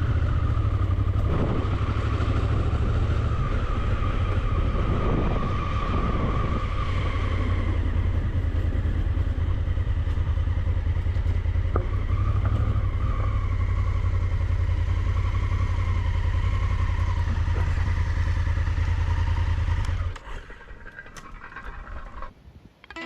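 Motorcycle engine running steadily while riding, with wind rushing over the microphone. The engine sound drops away sharply about twenty seconds in.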